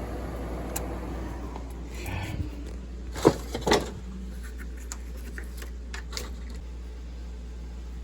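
A furnace's running noise fades away over the first two seconds, leaving a steady low hum. A little after three seconds come two sharp knocks in quick succession, then a few faint ticks and taps.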